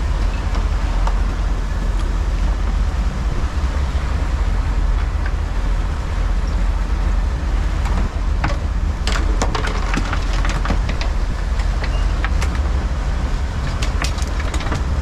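Sportfishing boat's engine running with a steady low rumble, and from about eight seconds in, a run of sharp knocks and clatters.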